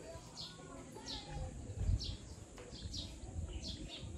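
A bird chirping over and over, short falling chirps about twice a second, over low bumps and thuds close to the microphone, the loudest about two seconds in.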